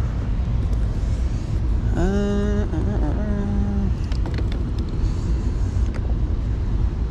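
Steady low mechanical rumble, with a short pitched hum about two seconds in lasting under two seconds.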